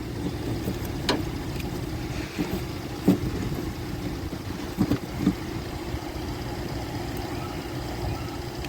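A few sharp clicks and knocks from battery terminal and cable work, over a steady low drone.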